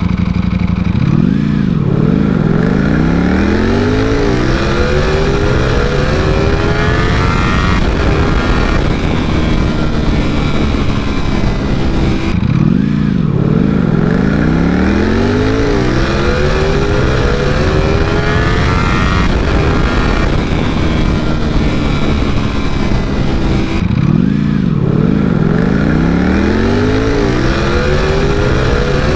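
V4 superbike engine accelerating hard through the gears, its pitch climbing and dropping back at each upshift. The same full-throttle run is heard three times over.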